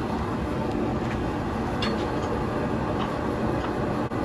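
A steady rumbling noise with a few faint, light clicks scattered through it.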